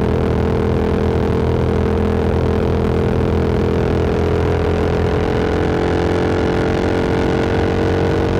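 Motorcycle engine pulling at a steady cruising speed, its pitch creeping slightly higher, with a steady rush of wind and road noise.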